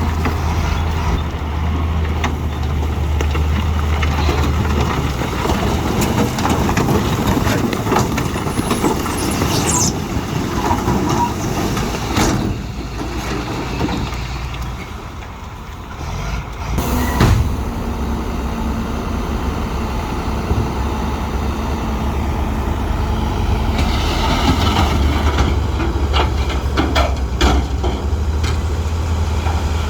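Heavy diesel earthmoving machinery running with a steady low engine drone that eases off briefly about halfway through, then a sudden sharp burst about seventeen seconds in, and a run of clanks and knocks near the end.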